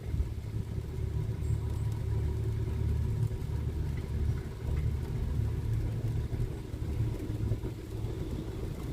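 Steady low engine rumble with no marked change in pitch or level.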